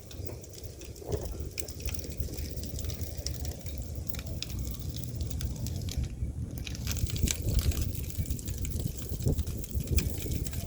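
Snowstorm wind rumbling against the microphone, with a steady rushing noise and many scattered crackling ticks.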